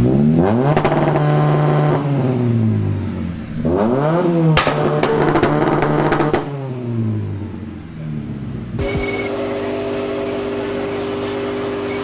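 Honda Civic engine revved hard twice, each rev climbing, holding and falling back, with no two-step crackle: the two-step launch limiter isn't working right now. Background music comes in about three quarters of the way through.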